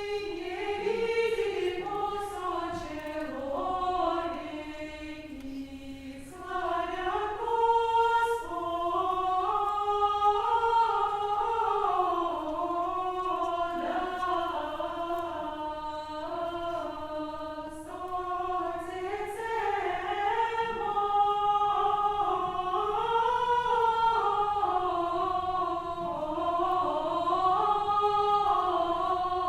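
A choir sings unaccompanied in the old Russian style, with several voice parts moving together in slow, held notes that rise and fall.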